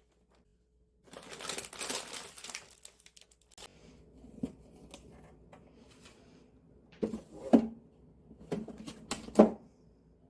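Plastic packaging rustling and crinkling, then several sharp knocks and clacks in two clusters near the end.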